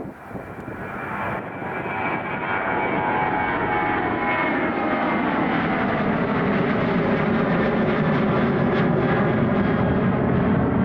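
Boeing 737-700 airliner's CFM56 jet engines at takeoff power, growing louder over the first few seconds and then holding steady. In the second half a whine glides downward in pitch as the jet goes past.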